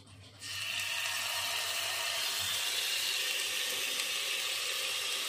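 Marinated chicken pieces sizzling in hot oil in a pot: the sizzle starts suddenly about half a second in as the chicken goes into the oil, then holds steady.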